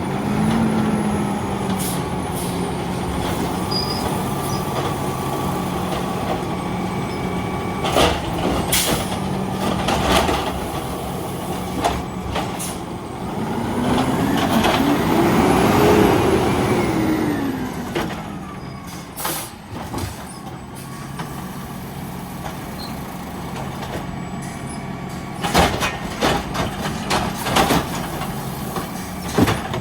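Garbage truck's diesel engine running steadily, speeding up and falling back about halfway through, with several sharp bangs and knocks early on and again near the end.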